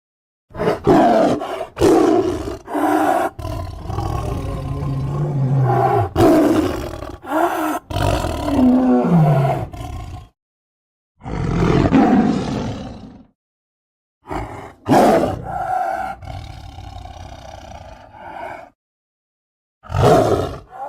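Homemade monster sound effects for King Shark: a string of rough, growling roars. A long run of roars with gliding pitch lasts about ten seconds, then three shorter roars follow, each cut off into dead silence.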